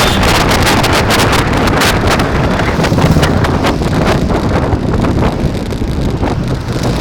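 Heavy wind buffeting the microphone during a bike ride, a loud steady rumble with many short rattling clicks mixed in.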